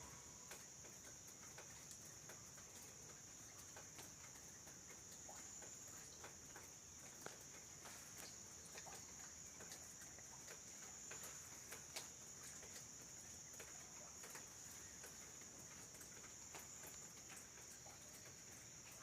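Faint, steady high-pitched insect trill, with scattered faint clicks.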